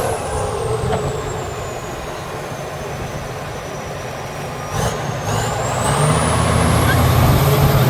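Competition trial truck's diesel engine working under load, with a high whine that sinks as the revs drop and climbs again as the engine revs up about six seconds in. A short knock comes just before the revs rise.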